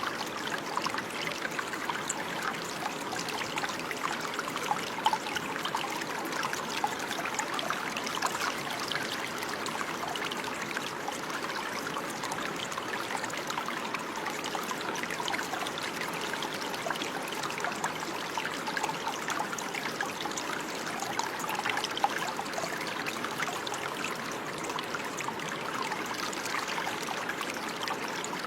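Water running and trickling steadily, a continuous splashing babble like a small stream, with a few slightly louder splashes.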